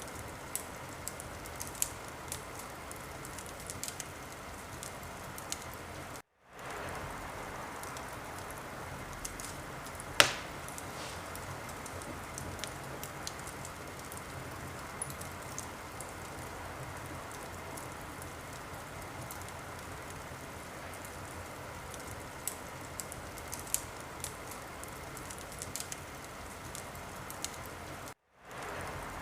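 Wood fire burning in a fireplace: a steady hiss of flames with scattered small crackles and one loud pop about ten seconds in. The sound cuts out for an instant twice, about six seconds in and near the end.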